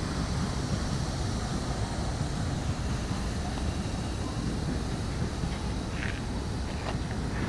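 Steady rumble of a ride-on live-steam miniature train running along its track, with a couple of faint ticks near the end.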